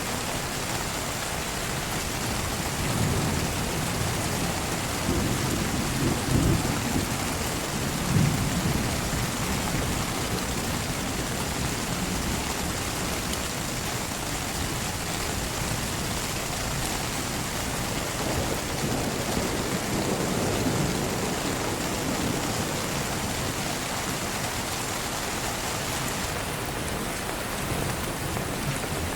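Heavy rain falling steadily, with low rumbles of thunder a few seconds in and again about two-thirds of the way through.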